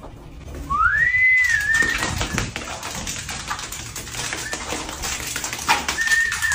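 Small fluffy dog whining: a thin, high whine that rises and levels off about a second in and comes again, held steady, near the end, over scuffling and rustling.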